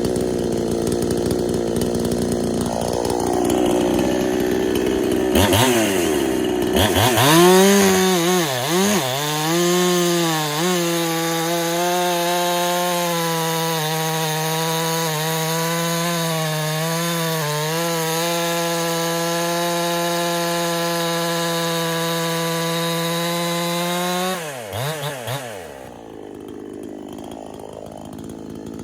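Big-bore, gasket-deleted Husqvarna clone two-stroke chainsaw revved up about six seconds in and held at high revs for around seventeen seconds with a few brief dips, then dropping back near the end. It is a fresh build on its break-in run; the owner finds the tune getting leaner as it runs and suspects a possible air leak.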